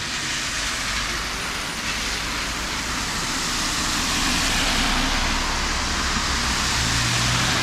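Heavy rain falling on a city street, a steady hiss mixed with the sound of car traffic on the wet road, growing slowly louder.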